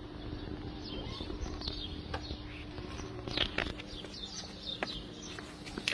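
Small birds chirping in short, scattered calls over a steady low hum, with a few sharp clicks a little past the middle.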